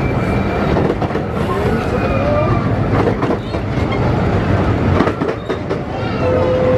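Miniature 15-inch gauge railway train running along the track. There is a steady rumble with rail clatter and thin, wavering wheel squeals.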